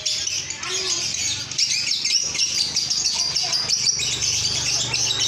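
Male lovebird chattering in a fast, unbroken run of high chirps.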